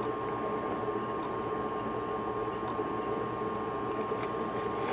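Steady mechanical hum with a constant high tone, and faint ticks about every second and a half.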